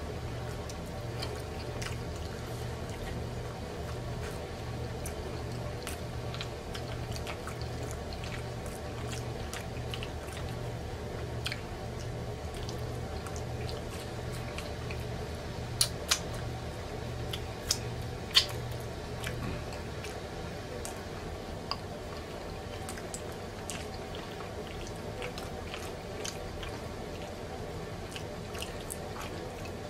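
Close-miked chewing and wet mouth sounds of someone eating soft mac and cheese and fried fish, with a few sharp clicks, the loudest a little past halfway, over a low pulsing hum that stops about two-thirds of the way in.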